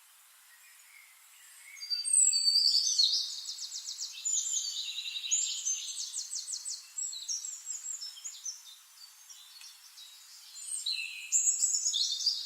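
Songbirds singing: faint chirps at first, then from about two seconds in a loud, varied song of rapid trills and whistles that tapers off and swells again near the end.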